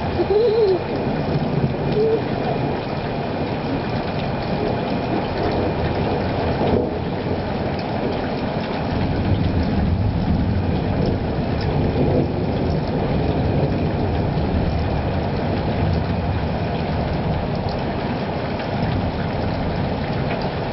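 Thunderstorm: a steady low rumble of thunder.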